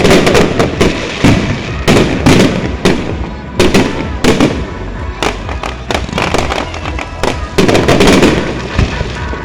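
Aerial fireworks exploding in rapid, irregular bangs, several in quick succession at times, with a crackling haze between them, over music playing along with the display.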